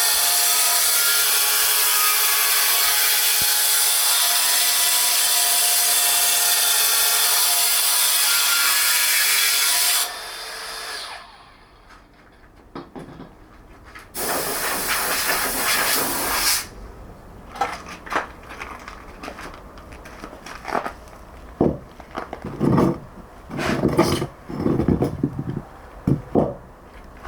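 A power tool running steadily on stone for about ten seconds, then stopping. A second short run follows a few seconds later, then a string of short, irregular bursts of tool-on-stone work.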